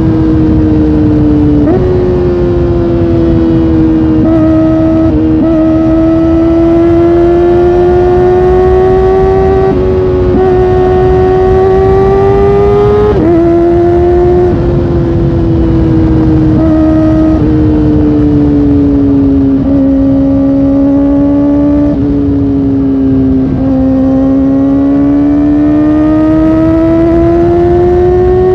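Kawasaki Ninja ZX-4R's inline-four engine running at high revs under way, its high-pitched note climbing slowly under throttle with a few abrupt pitch steps at gear changes. Midway the pitch falls steadily as it eases off, then climbs again near the end.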